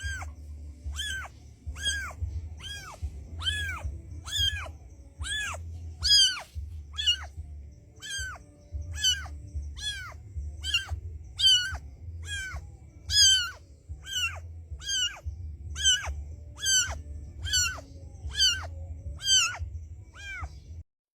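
Kitten mewing over and over, short high-pitched calls that rise and fall, a little more than one a second, over a steady low rumble.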